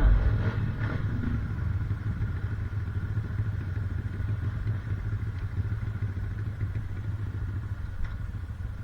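Off-road motorcycle engine idling steadily with a low hum.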